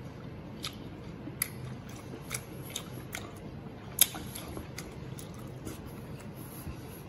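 Close-up mouth sounds of chewing braised pork intestines: irregular wet clicks and smacks, with one sharp click about four seconds in.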